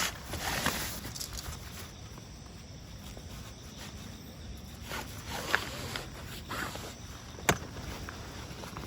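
Scattered footsteps and rustling, with a few short knocks and a sharp click about seven and a half seconds in.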